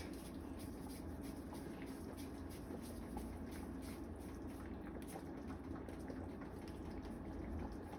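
Pot of chicken soup simmering on the stove: faint, steady bubbling with many small irregular pops.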